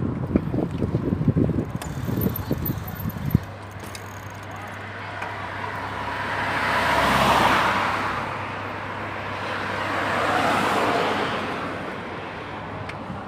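Two cars passing one after the other, each a swell of tyre and engine noise that rises and fades, the first loudest about seven seconds in and the second about ten. Over roughly the first three seconds there is irregular low knocking and buffeting on the microphone.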